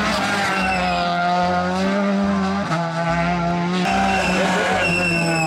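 Race car engine sound, a high, steady, buzzing drone that shifts pitch a few times.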